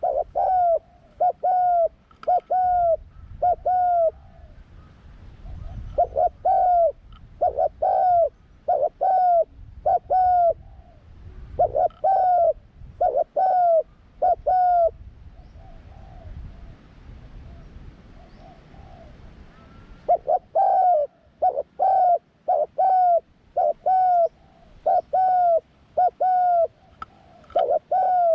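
Spotted dove cooing: runs of short, evenly repeated coos, about one to two a second, with a lull of several seconds near the middle where only fainter coos carry on before the loud run resumes.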